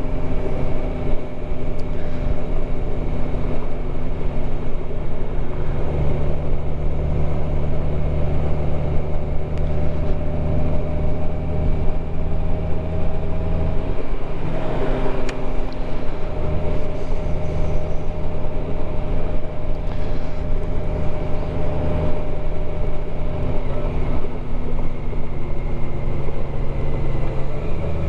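Motorcycle engine running steadily while riding, with road rumble. About halfway through the engine note dips briefly, then steadies again at a slightly different pitch.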